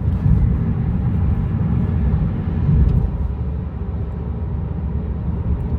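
Steady low rumble of a vehicle on the move, car engine and road noise, with no other distinct event.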